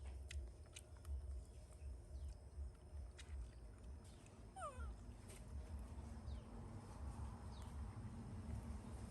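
A pet monkey giving one short, falling squeak about halfway through, over a low steady rumble and a few faint clicks.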